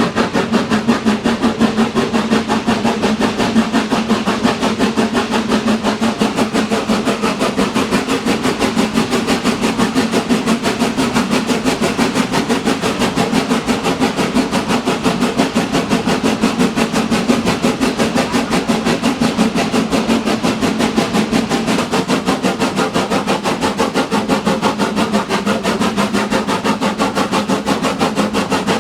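Train running steadily, with a fast, even pulsing beat over a steady low hum.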